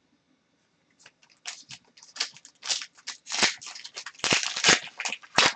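Crinkling and tearing of a trading-card pack wrapper. It comes as a rapid run of sharp crackles that starts about a second in and gets louder toward the end.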